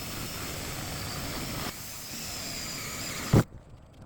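Power drill boring holes through the truck's sheet-metal floor pan, running steadily with a faint whine, then stopping abruptly about three seconds in with one loud thump.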